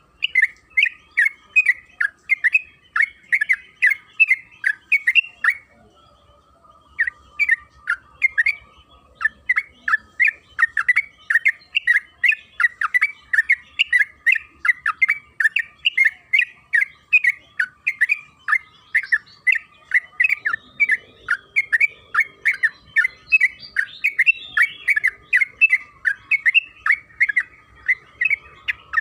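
Yellow-vented bulbul (trucukan) singing a long, fast run of short chattering notes, about three a second, with one brief pause near the start. A faint steady tone sits beneath the song.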